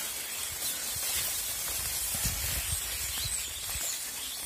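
Faint high chirping of a large flock of small birds over a steady outdoor hiss, with soft low rumbles of wind on the microphone about two seconds in.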